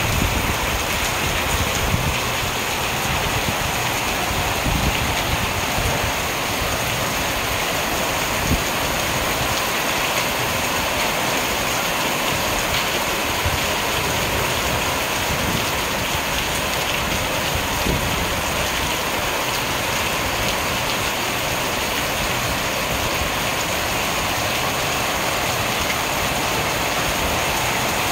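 Heavy rain pouring steadily, splashing on a corrugated roof sheet and on the paved ground below.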